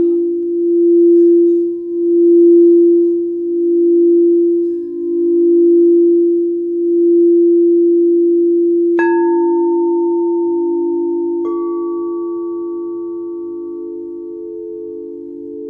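Singing bowls ringing: a low bowl tone swells and fades in slow waves, then dies away steadily. About nine seconds in, another bowl is struck and rings a higher tone, and a second strike about two and a half seconds later adds another sustained tone.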